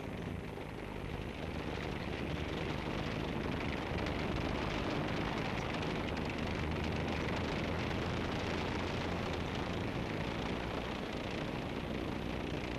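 Tank engine running steadily, a low drone under heavy hiss from the old film soundtrack; it grows slightly louder a couple of seconds in.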